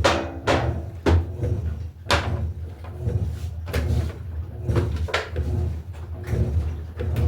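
Electrolux LTE08 top-loading washing machine agitating a load, with water and clothes swishing about once a second over the steady low hum of the motor.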